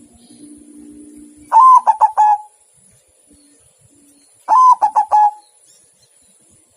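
Zebra dove (perkutut) cooing: two loud song phrases about three seconds apart, each a quick run of four clipped notes, the first note held a little longer than the rest.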